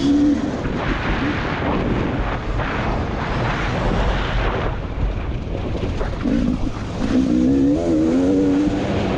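KTM 300 EXC two-stroke dirt bike engine revving hard under load, its note rising and falling with the throttle, over heavy rumble and wind noise.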